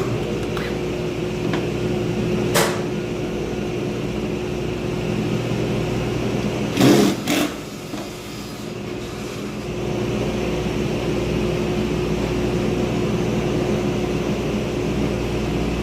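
A steady electric motor hum from a running woodworking machine, with a sharp knock about two and a half seconds in and two more close together about seven seconds in.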